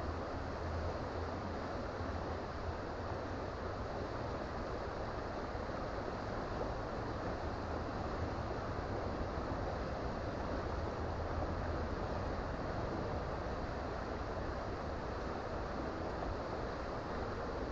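Creek water rushing steadily over rocks, an even unbroken wash with a low rumble underneath.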